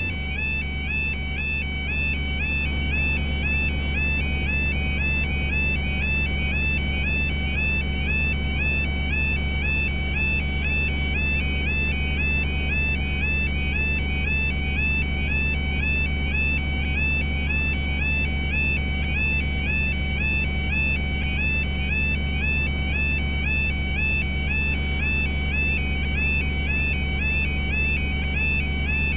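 UK level crossing yodel alarm sounding continuously, a repeating electronic warble about one and a half cycles a second, with a steady low hum beneath it.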